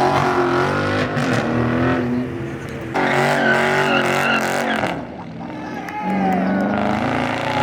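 Car engine revving hard in repeated surges, with tyres squealing as the car does a burnout. The revs drop off briefly about two seconds in and again about five seconds in before climbing again.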